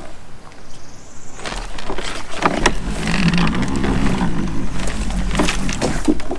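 Loud handling noise from a kayak angler setting the hook and briefly fighting a bass: rustling and repeated knocks over a low rumble, starting about a second and a half in. The hook set is poor and the fish comes off.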